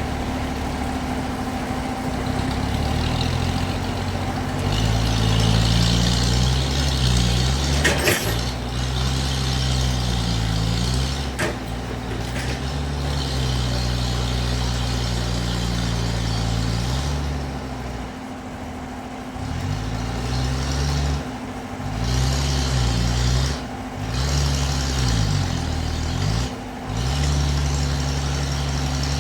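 Heavy engine running in a sawmill, its pitch rising and falling again and again as it is revved and loaded, over a steady machine hum, with a sharp click about eight seconds in.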